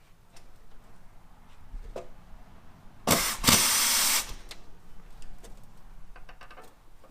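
Handheld power tool run in one burst of about a second on a brake caliper bolt, with a short break near its start. Light clicks of tools before and after.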